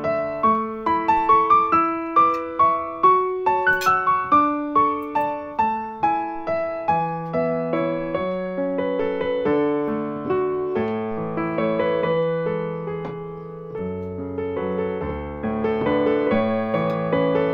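Background piano music: a gentle, slow melody of single notes over soft lower notes.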